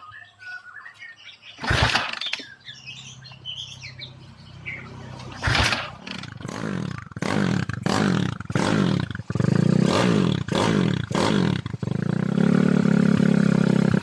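Bored-up Honda Tiger single-cylinder four-stroke motorcycle engine with a Jaguar cylinder head, starting up and being revved. Two short loud bursts come first. About six seconds in it runs with quick repeated throttle blips, about two a second, and near the end it is held at high revs.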